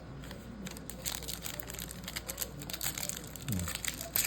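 Crinkling of a trading-card pack's foil wrapper being handled and opened, as a run of small irregular crackles and clicks. A short low hum of a voice near the end.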